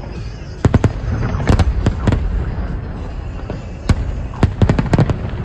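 Fireworks bursting overhead: irregular sharp bangs over a continuous low rumble, with a quick run of bangs near the end.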